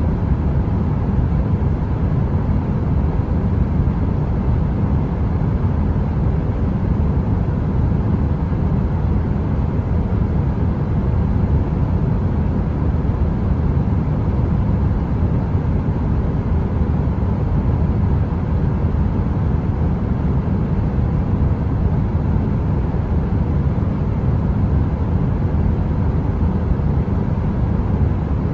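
Heater white noise: a steady, deep rumble with a faint steady hum on top. It is even throughout, with no crackle.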